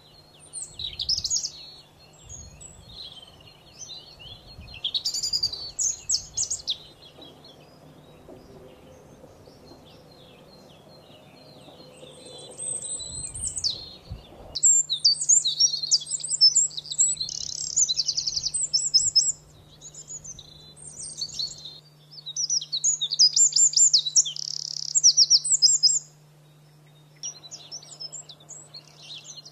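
Domestic canary singing: bursts of high warbling song broken by long, fast trills. The song gets louder and fuller about halfway through.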